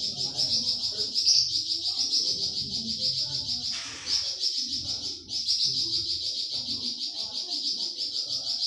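A flamboyan songbird singing a long, rapid, high-pitched trilling song. It falters about four seconds in, stops briefly and starts again at full strength just past the five-second mark.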